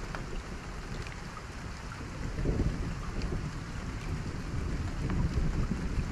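Steady heavy rain: a constant hiss with a deep low rumble underneath that swells a little about two and a half and five seconds in.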